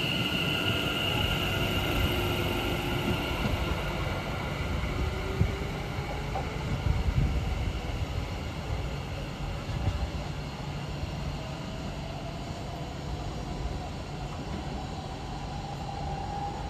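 West Midlands Railway Class 730 electric multiple unit accelerating away: a steady rumble of wheels on rail with a few sharp clacks over rail joints, and a whine that slowly rises in pitch as the train picks up speed. It grows a little quieter as the train draws away.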